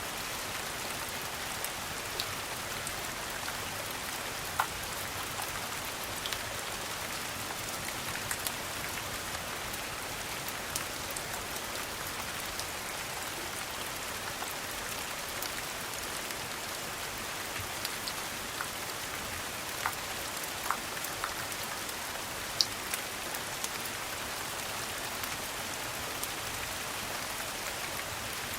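Steady rain, an even hiss, with a few sharp crackling pops scattered through it.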